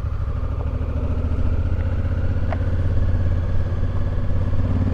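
Motorcycle engine running steadily while riding along a road, its pitch starting to rise near the end as it speeds up.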